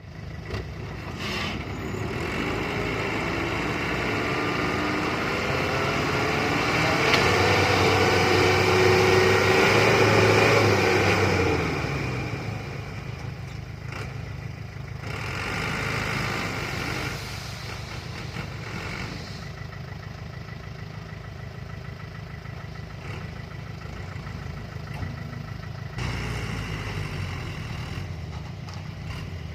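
Dump truck's engine running, revving up with rising pitch to its loudest about eight to eleven seconds in, then dropping back to a steady idle, with a brief rev again near the end.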